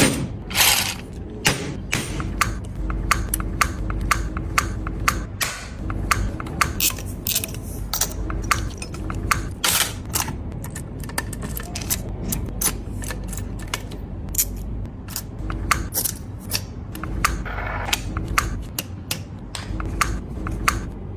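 Many sharp, irregular clicks and taps of small metal parts of a V8 engine model kit being handled and fitted together, over a low steady hum.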